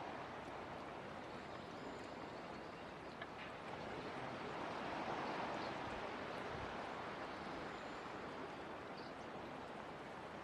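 Water running steadily from a garden hose, a continuous rushing that swells slightly about five seconds in.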